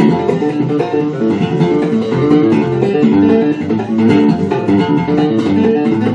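Jackson electric guitar with EMG pickups played through an amplifier: a quick run of short picked notes.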